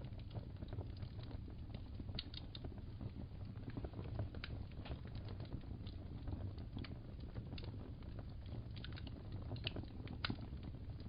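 Wood fire crackling in a fireplace: irregular small pops and snaps, some sharper ones about two seconds in and near the end, over a low steady rumble.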